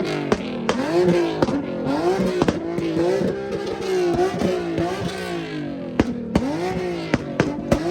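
Car engine revving in repeated rises and falls, about once a second, with sharp cracks scattered through it.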